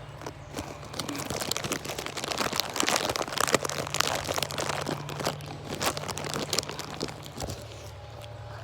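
Footsteps crunching through dry leaves and twigs, a dense run of crackles and snaps that is loudest in the middle and eases off near the end.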